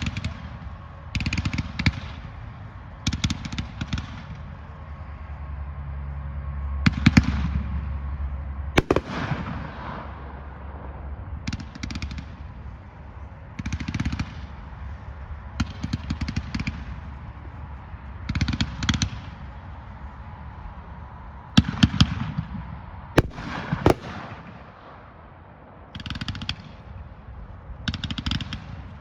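Consumer aerial firework firing a long string of shots, a cluster of sharp bangs and cracks every second or two with a low rumble between.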